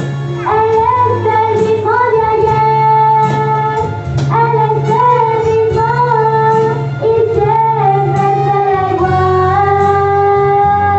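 A high voice sings the slow melody of a Spanish-language worship song, gliding into each held note, over instrumental accompaniment with sustained bass notes.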